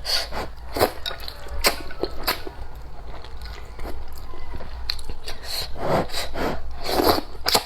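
Close-up eating sounds of a person tucking into a bowl of spicy instant rice noodles in soup: chewing and mouth noises with frequent short, sharp clicks and a few longer noisy swells.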